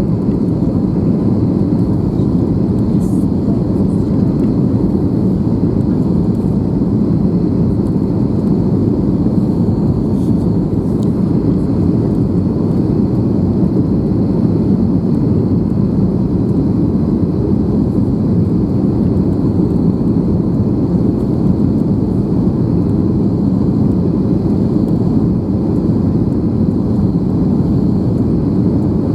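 Steady, loud cabin noise of an Airbus A321 in flight: engine and airflow drone, strongest low down and unchanging, with a faint high steady whine above it.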